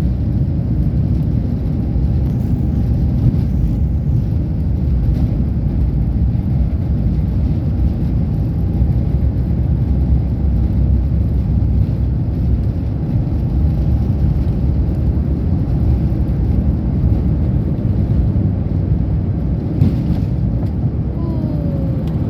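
Airbus A350 cabin noise during the takeoff roll: a loud, steady low rumble from the engines at takeoff power and the wheels on the runway, with a faint steady whine above it.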